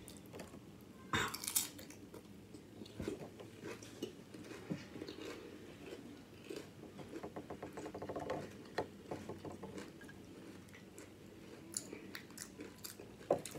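Close-up chewing and crunching of salsa-covered Flamin' Hot Doritos nacho chips, with a sharp crunch of a bite a little over a second in and softer crunching and chewing clicks after.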